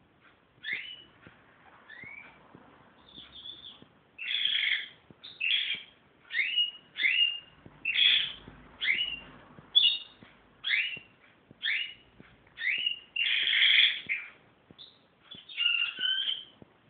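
Pet bird whistling: a string of short chirping whistles, each a quick slide in pitch. The notes are faint at first, then louder and regular, roughly one a second, from about four seconds in.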